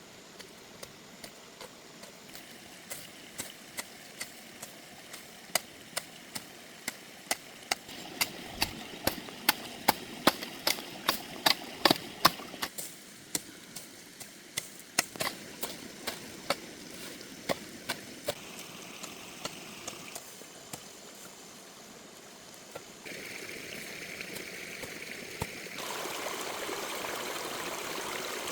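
Repeated sharp knocks, about two a second, over a steady rush of running water. The knocks are loudest near the middle and thin out in the second half. The water gets louder in two steps near the end.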